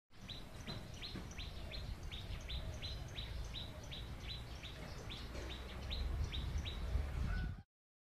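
A small bird chirping over and over, one short high chirp about three times a second, over a low rumble. It stops suddenly just before the end.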